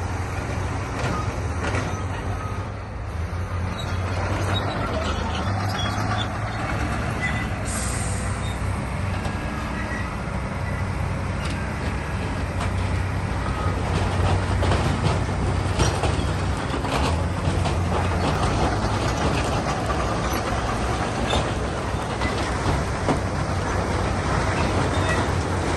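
Heavy diesel earthmoving machinery running steadily under load, with irregular clanking and clattering over the engine hum; it gets somewhat louder about halfway through.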